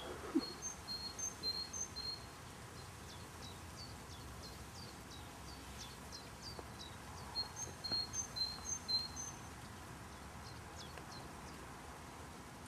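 A bird singing: two bouts of short, high, repeated chirping notes, the first near the start and the second past the middle, over a steady low background hum of outdoor noise.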